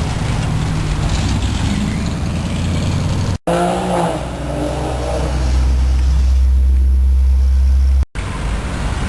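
Old American cars' engines running as they cruise past, heard in short clips cut together. A deep, loud low rumble builds in the second half.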